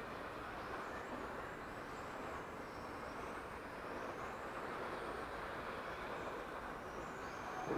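Electric 1/10 touring RC cars lapping a carpet track: a faint high whine from their 21.5-turn brushless motors rises and falls as they accelerate and brake, over a steady hiss.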